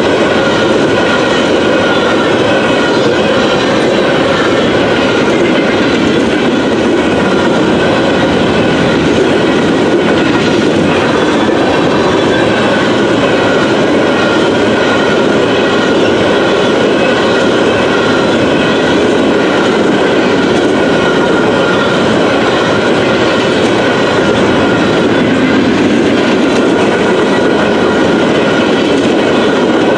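Freight train of covered hopper cars rolling past close by: a steady loud rumble and clatter of wheels and car bodies, with a thin steady high tone running underneath.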